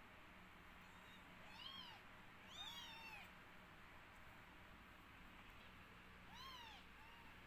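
Kittens mewing softly: several short, high, rising-and-falling mews, a pair close together about a third of the way in and another near the end.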